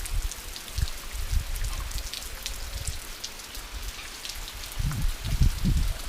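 Light, calm rain falling, with a steady hiss and many individual drops ticking. A low rumble surges in and out, strongest near the end.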